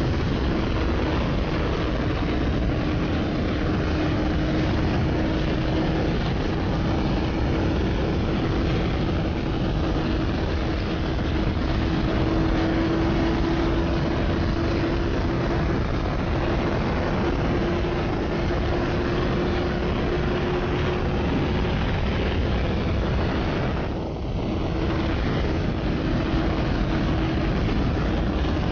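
Yamaha R6S sport bike's inline-four engine held at steady high revs at speed, under heavy wind rush on the microphone. The engine note climbs very slowly, then dips briefly near the end before carrying on.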